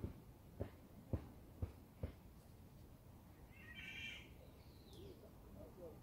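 Five soft steps on dry leaf litter about half a second apart, then, about four seconds in, a wild bird gives one short harsh call followed by a brief falling note.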